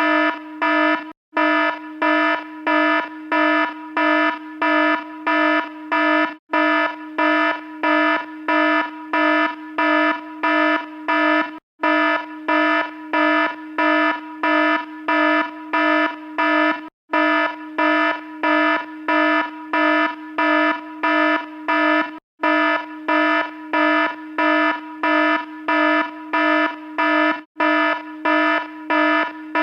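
Electronic alarm beeping: a buzzy, low-pitched beep rich in overtones, repeated evenly about three times a second, with a brief break about every five seconds.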